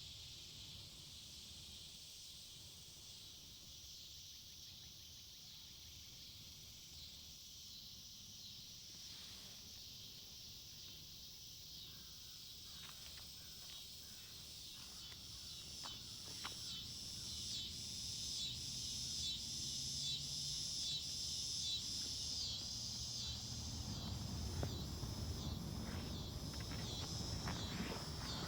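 Insect chorus in woodland: a steady high-pitched buzz that takes on an even pulsing rhythm and grows louder about halfway through, with a few soft rustles and clicks scattered through it.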